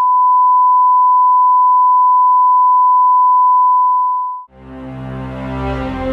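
A loud, steady single-pitch test tone, the line-up tone at the head of a broadcast programme, which cuts off about four and a half seconds in. Music with low sustained notes then begins.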